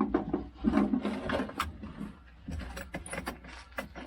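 Bicycle rattling and clicking while being ridden: irregular sharp mechanical clicks and a few duller knocks over a steady low rumble.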